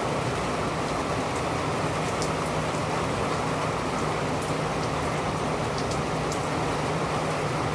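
Steady rain falling, with scattered faint drop ticks over the even hiss and a low steady hum underneath.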